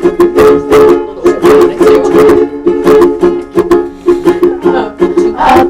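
Chords strummed in a steady rhythm on an acoustic string instrument, playing the introduction to a school song. Voices begin singing right at the end.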